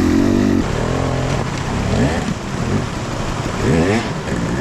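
Dirt bike engine held at high revs, dropping off about half a second in, then blipped up and down in quick rising-and-falling revs about two seconds in and again near the end.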